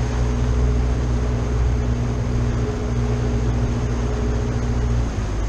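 Boat engine running steadily under way, with water and wind hiss; near the end its note dips briefly and settles at a different pitch, as with a throttle change.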